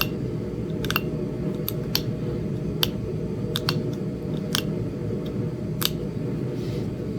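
Sharp, irregular clicks, about one a second and some in close pairs, as small flakes snap off the edge of a small Flint Ridge chert point during the last flaking. A steady low hum runs underneath.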